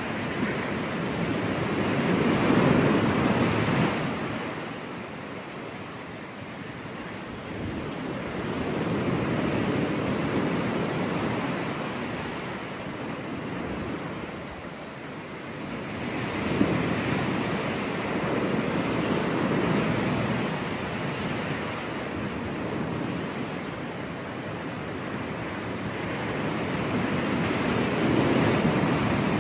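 Ocean surf washing onto a beach, the waves swelling and easing in slow surges every several seconds, with some wind on the microphone.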